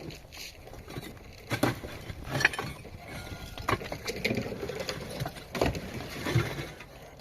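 A series of irregular knocks and clatters, the sharpest about a second and a half, two and a half, and five and a half seconds in.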